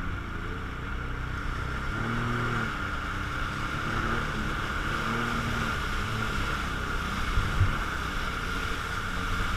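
Jet ski engine running steadily, with a constant whine over a low rumble, and wind on the microphone.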